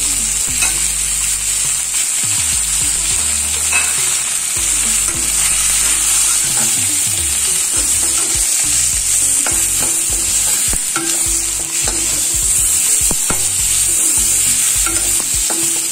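Onion-tomato masala with ground spices sizzling in oil in a kadai while a slotted spatula stirs and scrapes it, with a steady sizzling hiss and scattered short clicks of the spatula against the pan.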